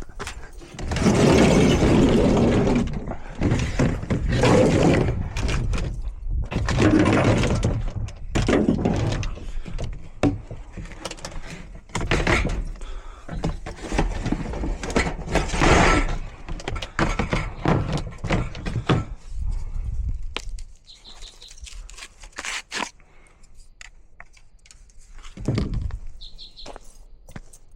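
Dry sticks and branches being snapped and handled to start a campfire: irregular cracks and knocks, busiest in the first two-thirds, with a last one near the end.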